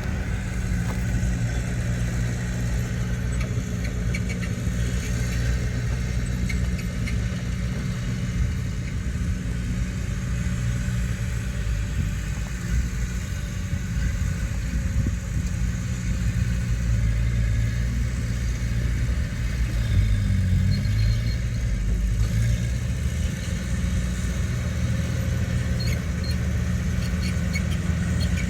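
Heavy diesel earthmoving machinery running steadily, its engine's low hum constant, with a brief surge about two-thirds of the way through.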